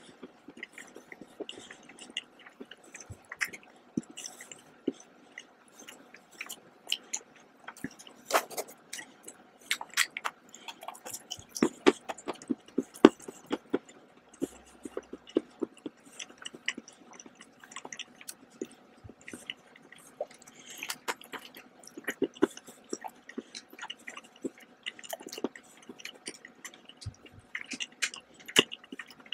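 A person chewing chocolate close to the microphone, with many small, sharp, irregular clicks throughout.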